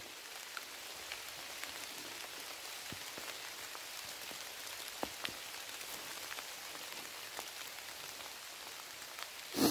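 Steady rain falling, an even hiss with scattered single drops ticking close by. A short, louder noise comes near the end.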